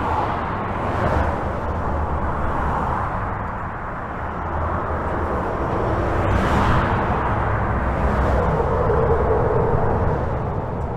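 Continuous highway traffic heard from under a bridge: a steady low rumble and tyre noise, swelling and fading as vehicles pass, with a faint steady whine from one passing vehicle near the end.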